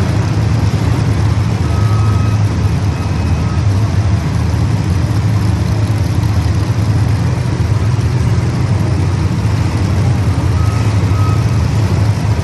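Race engines running steadily as the field laps the track, a continuous loud low drone with no breaks.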